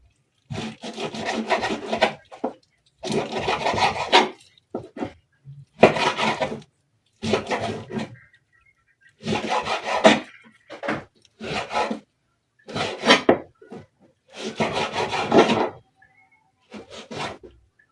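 Knife sawing back and forth through beef on a wooden chopping board, in a series of rough strokes, each about a second long with short pauses between.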